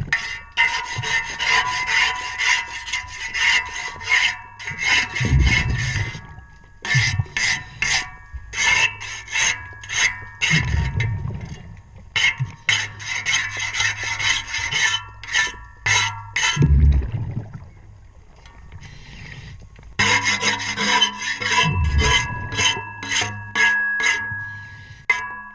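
Underwater, a boat propeller being scraped by hand in runs of quick, rhythmic strokes, the metal giving off a faint ringing tone. A low rumble of the diver's exhaled air bubbles comes about every five seconds, and the scraping pauses for a few seconds past the middle.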